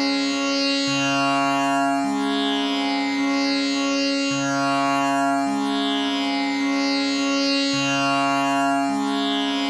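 Tanpura drone tuned to C sharp: its strings are plucked one after another in an unbroken cycle that repeats about every three and a half seconds, over a steady ringing tonic with many overtones.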